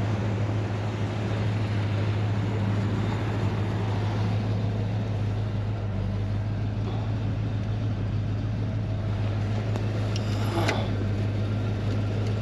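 The 1957 Chevy Bel Air's engine idling steadily, with a brief higher-pitched sound about ten and a half seconds in.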